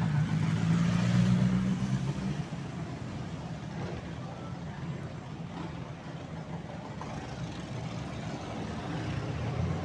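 Harley-Davidson V-twin motorcycle engine running as the bike rolls past, loudest in the first couple of seconds and then fading.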